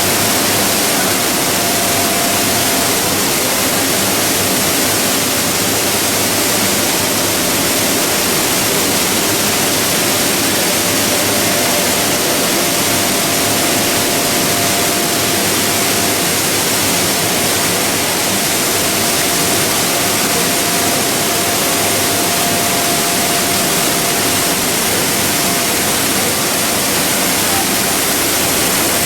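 Steady, loud running noise of a PE and calcium carbonate pelletizing line, with a thin steady whine through most of it that drops out briefly.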